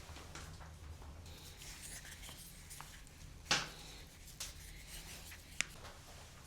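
Quiet handling and rustling sounds in a small room, with one sharp knock about three and a half seconds in and a smaller click about two seconds after it.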